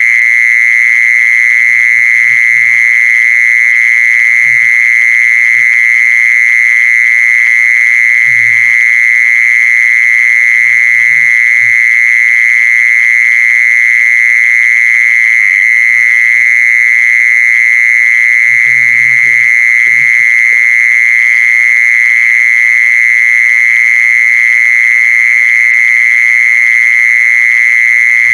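Song of the insect known in Thai as jeezon (แมลงจีซอน): a loud, unbroken, high-pitched trill on one steady pitch that never pauses. Faint low thumps and murmurs sound under it now and then.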